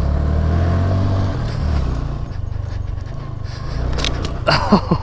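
Small single-cylinder mini-bike engine running under way, loudest in the first second or so and then steadier. A few sharp clicks and short squeaky sounds come near the end.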